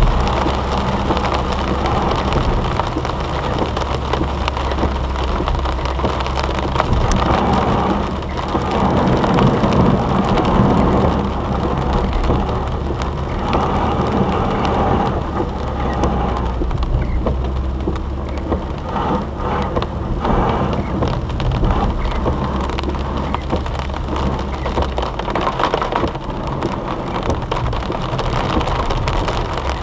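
Heavy rain drumming on a car's roof and windscreen, heard from inside the car, with gusty swells in loudness. A low rumble runs underneath and drops away near the end.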